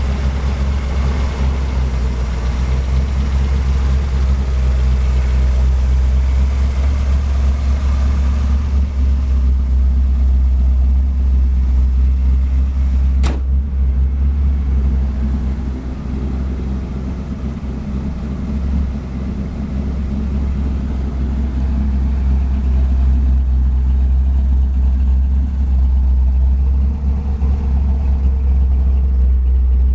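Old truck engine running steadily after an electronic ignition conversion, with a strong deep rumble. A single sharp click comes about halfway through.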